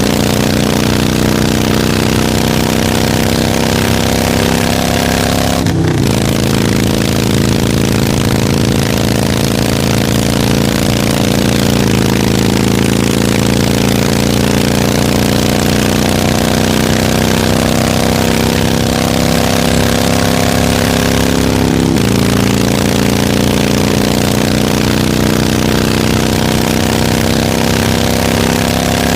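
Harley-Davidson motorcycle's V-twin engine running while riding, its pitch climbing slowly and then dropping sharply with a brief break about six, twelve and twenty-two seconds in, as at gear changes.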